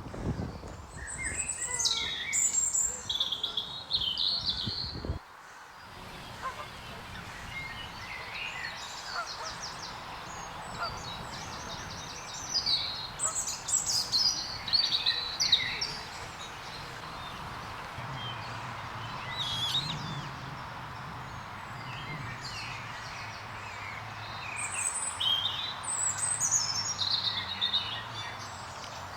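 Small birds singing in bursts of high, quickly changing phrases: about a second in, again around twelve to sixteen seconds, and near the end, over a steady outdoor background hiss.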